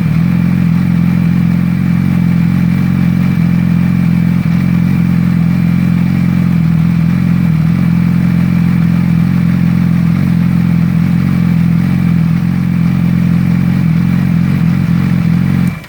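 2008 Yamaha R6's inline-four engine idling steadily and loudly through an open exhaust with the stock muffler removed, only the catalytic converters left in the pipe. It cuts off suddenly near the end.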